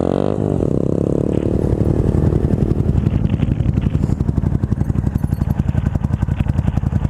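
Motorcycle engine dropping in revs during the first second, then settling into an idle with an even, rapid pulse.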